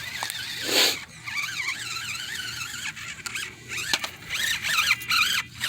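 Small electric motor and gearbox of a 1/24-scale Enduro24 Sendero RC crawler whining as it crawls over rocks. The high pitch wavers up and down as the throttle is worked, with a short burst of noise just under a second in.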